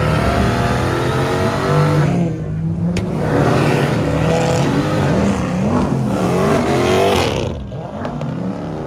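A car engine revving hard, its pitch climbing and falling in two long pushes, dropping off about two seconds in and again near the end, with a rough hiss over it.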